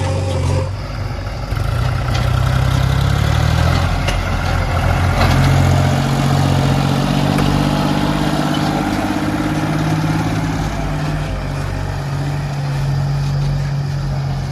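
Heavy diesel engine of the backhoe loader or tipper truck running, its engine speed shifting up and down a few times.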